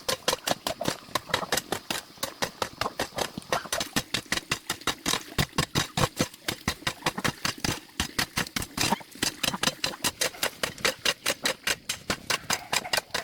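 Rapid, even knocking or clicking, about six or seven sharp strokes a second.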